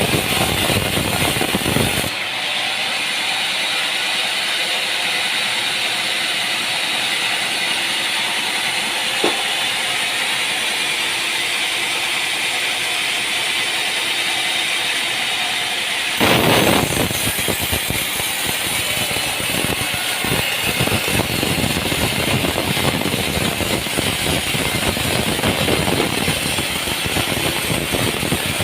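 Sawmill machinery running: a continuous loud mechanical noise. Its character changes abruptly about two seconds in, losing its low rumble, and changes again about sixteen seconds in, when the fuller noise returns.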